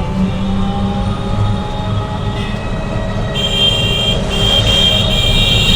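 A motor vehicle running steadily with a low engine rumble; high steady tones join in from about three and a half seconds in.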